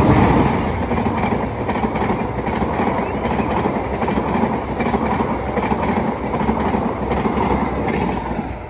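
Diesel-hauled passenger train passing close by at full speed: the locomotive going by first, loudest at the start, then the coaches' wheels running on the rails, easing off slightly near the end.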